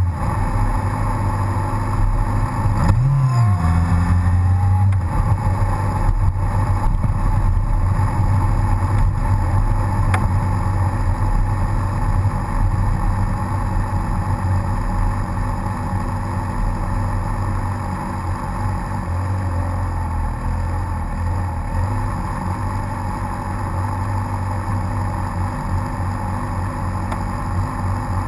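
Sport motorcycle engine running at low revs while the bike rolls slowly. About three seconds in, the pitch rises and falls once in a brief blip of the throttle, then the engine settles back to a steady low note.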